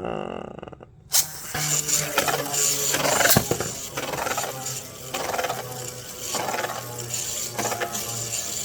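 Plastic Beyblade spinning tops, the Gyro Engine Gear free-spin combo against a second Beyblade, launched into a stadium: a short whirr at the start, a sharp clack about a second in as they land, then steady rattling, scraping and clicking as they spin and clash.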